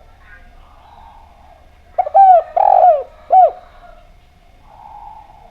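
Spotted dove (derkuku) cooing: one phrase of about four arching coo notes, starting about two seconds in and lasting about a second and a half, then a fainter coo near the end.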